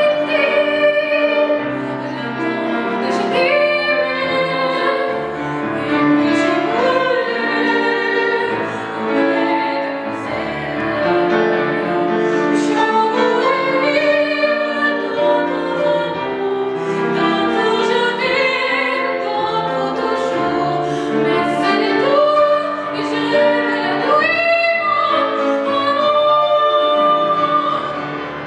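A young singer in classical (academic) style singing a sustained melodic line with vibrato, accompanied by piano.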